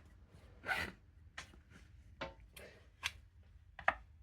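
Small hand-work noises at a generator's recoil starter: a short scraping rustle just under a second in, then a string of light, sharp clicks and taps, the sharpest near the end.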